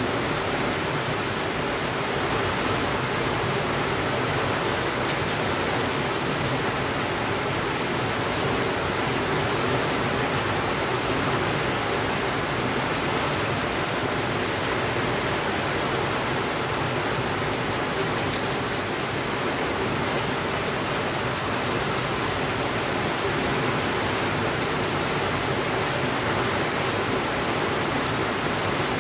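Steady, even rainfall, a constant hiss of rain with a few faint ticks here and there.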